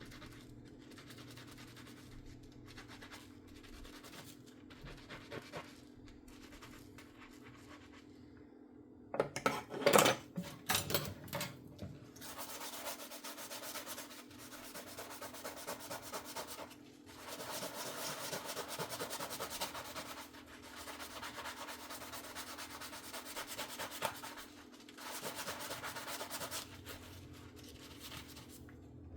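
Dishes being handwashed and scrubbed with a sponge. Faint rubbing at first, a few loud clattering knocks of dishware about nine to eleven seconds in, then long stretches of steady scrubbing broken by short pauses. A faint steady low hum runs underneath.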